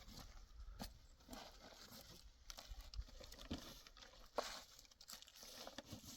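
Faint rustling with scattered light clicks and knocks, and one sharper click about four seconds in.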